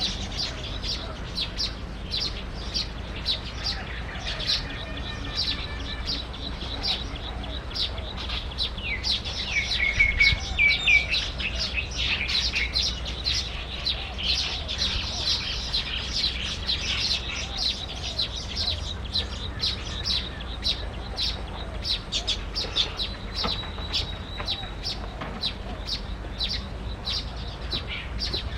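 Small birds chirping rapidly and continuously, with a louder run of short notes about ten seconds in.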